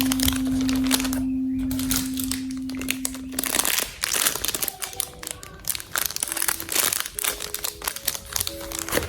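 Plastic packaging crinkling and rustling in irregular bursts as parcels are packed, over background music; a single held music note fades out about three and a half seconds in, after which the crinkling is the main sound.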